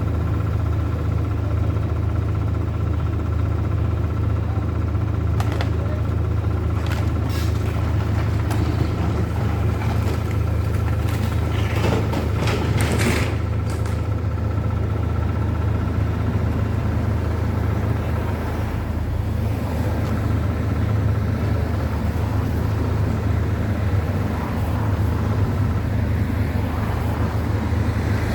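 A heavy engine runs steadily with a deep hum and a faint steady whine, with a few brief knocks and scrapes about midway.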